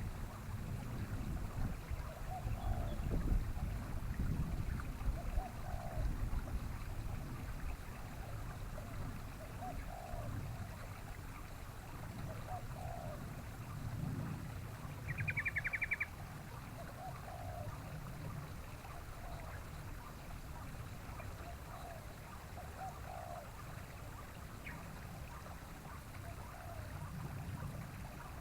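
Outdoor bird calls: a short, low call repeated every two to three seconds over a steady low rumble, with a brief rapid rattle near the middle.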